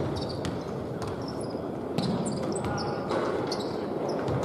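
Basketball game play on an indoor court: a ball bouncing, with irregular thuds and short high squeaks of sneakers on the floor.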